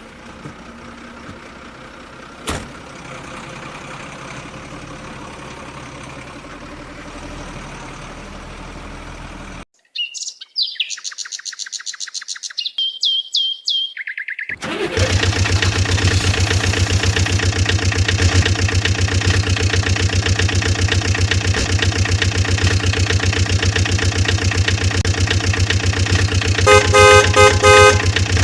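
Vehicle engine sound effects: a steady engine sound that cuts off abruptly, a few seconds of chirping beeps, then a louder, evenly pulsing engine running. Near the end a horn beeps twice over it.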